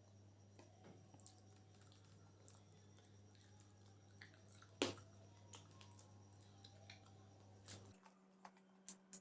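Faint sounds of a person chewing chicken chowmein: soft wet mouth noises and scattered small clicks, with one sharper click about five seconds in. A steady low hum runs underneath and cuts off near the end.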